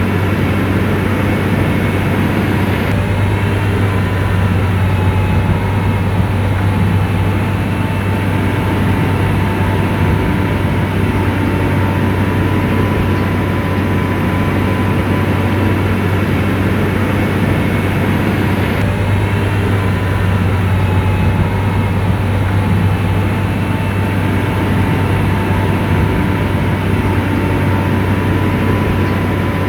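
Heavy diesel engine of a motor grader running steadily with a deep, even hum and a faint whine above it.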